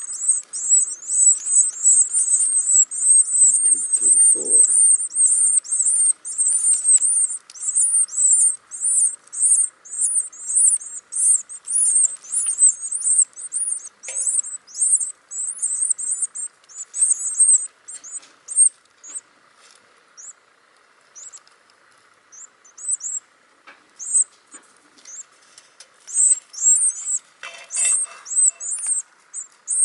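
Nestling baby birds chirping in the nest, a fast stream of very high-pitched calls that thins to scattered chirps about two-thirds of the way through and picks up again near the end.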